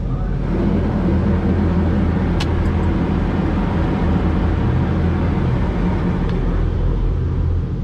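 Dodge Charger Hellcat's supercharged 6.2-litre HEMI V8 running at low speed as a steady low rumble. A steady hiss sits over it, with a couple of faint clicks about two and a half seconds in.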